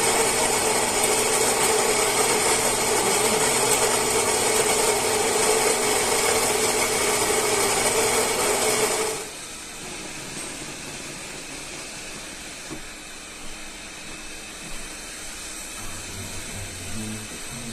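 Philips 3200 Series espresso machine running loudly with a steady mechanical whir, cutting off suddenly about nine seconds in, after which a much quieter steady noise from the machine continues.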